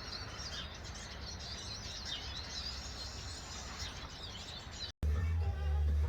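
Small garden birds chirping and twittering, many short calls overlapping, for about five seconds. Near the end the sound cuts off suddenly and music with a heavy bass begins.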